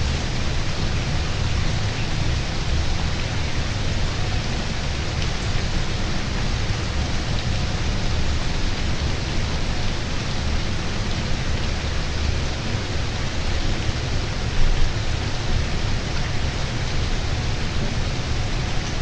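Steady rain falling, an even hiss with a low rumble underneath. There is one brief louder sound about three-quarters of the way through.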